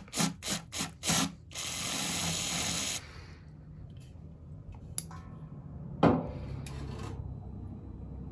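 Aerosol spray can hissing onto a thermostat's temperature sensor to chill it: about five quick spurts, then a steady spray for about a second and a half that cuts off sharply. A knock follows near the end, over a low steady hum.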